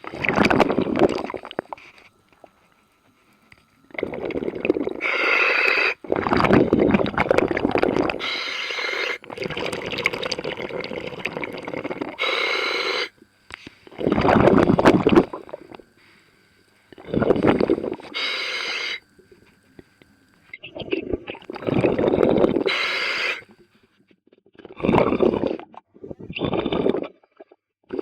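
Scuba diver breathing through a regulator underwater: repeated gurgling bursts of exhaled bubbles, each a second or a few seconds long, with short pauses between breaths.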